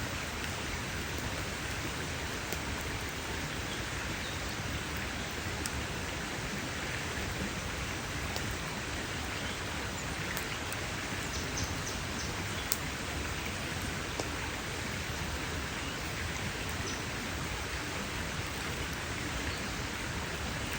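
Campfire burning with a steady hiss and scattered sharp crackles and pops, one pop standing out about halfway through.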